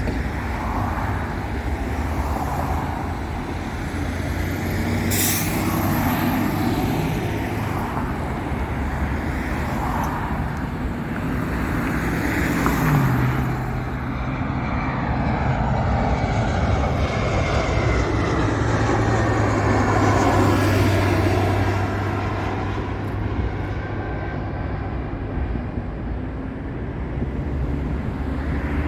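A vehicle engine runs steadily under continuous traffic or road noise, with a slowly falling whine through the middle.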